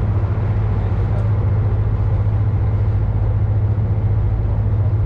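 Ship's engine running with a steady low hum, under an even wash of noise.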